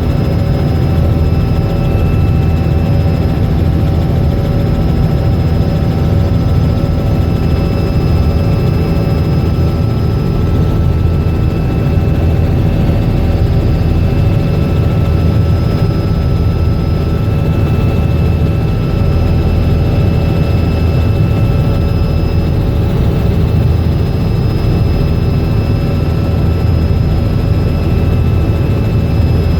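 Robinson R66 helicopter running steadily, with its rotors and turbine making a loud, constant low drone and a few steady whining tones above it.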